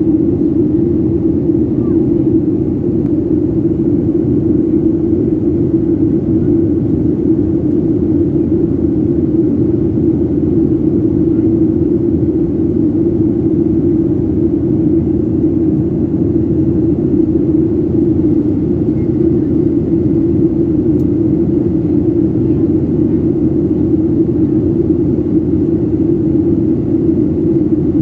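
Steady cabin noise of a Boeing jet airliner in flight: engine and airflow noise with a constant low hum, unchanging throughout.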